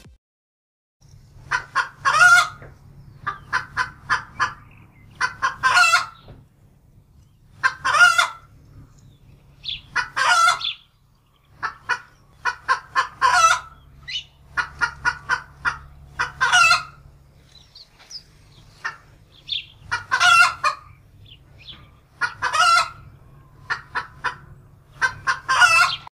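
Chicken clucking in quick runs of short clucks, each run ending in a longer, louder call. The runs repeat every two to three seconds, starting about a second in.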